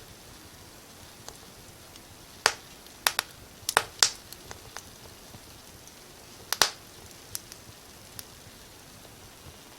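Wood fire crackling: sharp pops and snaps, several in a quick cluster a few seconds in and a double pop later, over a faint steady hiss.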